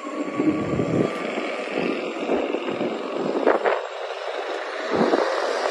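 Car engine and traffic noise, a continuous rumble that rises and falls, with a couple of short sharper sounds about three and a half seconds in.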